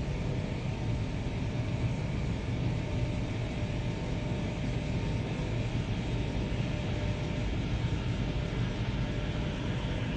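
Samsung 16 kg heat pump tumble dryer running on its bedding cycle, tumbling a duvet: a steady hum with an even whooshing rush that does not change.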